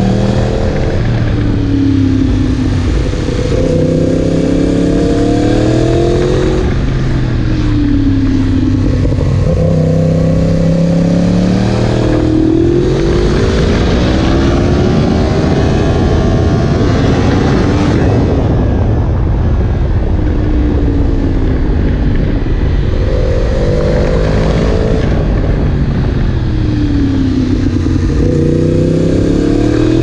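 Yamaha MT-10 SP's crossplane inline-four through an Akrapovic exhaust, its engine note rising and falling over and over as the throttle is opened and eased off.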